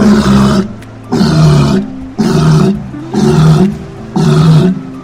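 A big cat roaring: five loud, rough roars about a second apart, with background music between them.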